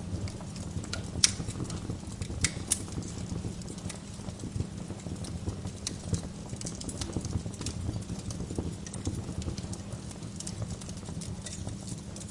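Wood fire burning in a fireplace, crackling with irregular sharp pops over a low steady rumble of the flames; the loudest pops come a little over a second in and again shortly before three seconds.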